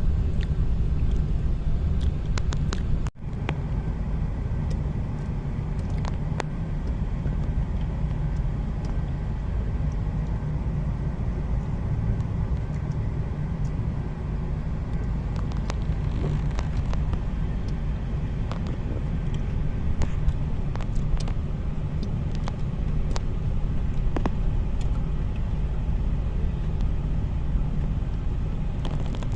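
Car on the move: steady low engine and road rumble that breaks off for an instant about three seconds in, with faint scattered ticks.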